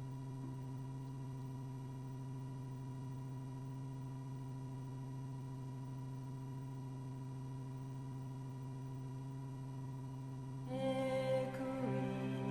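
Steady helicopter hum with no change in pitch, then a song with singing starts about eleven seconds in.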